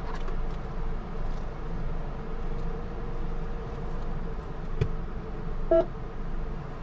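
Steady low hum of a car idling at a car wash pay station, with a single click about five seconds in and one short beep soon after.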